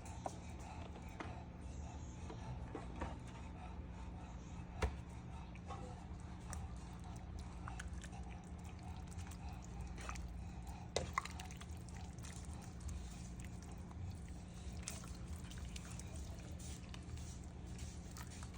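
English bulldogs lapping and eating soup from their bowls: wet, dripping liquid sounds with scattered small clicks and an occasional sharper knock.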